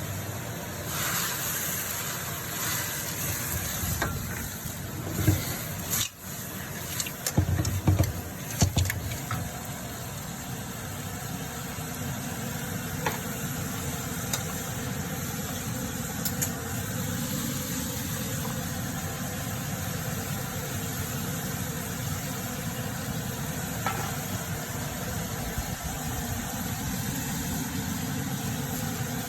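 Steady hiss and sizzle of seafood being stir-fried in a wok, with a run of sharp spatula knocks against the pan about five to nine seconds in.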